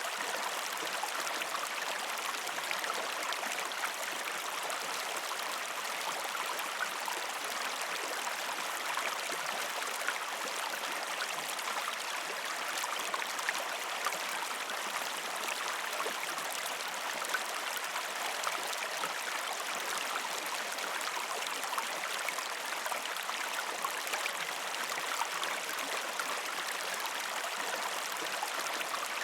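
A shallow river stream flowing steadily over rocks: a constant rushing of water with fine splashing and bubbling.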